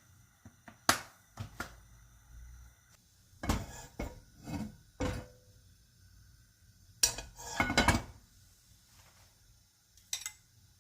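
Dishes and utensils being handled, with separate knocks and clinks in a few short clusters and pauses between them.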